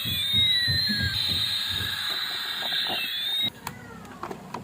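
Electronic sound effects: a steady high tone with gliding sweeps rising and falling over low pulsing thuds. They cut off sharply about three and a half seconds in, and a few faint clicks follow.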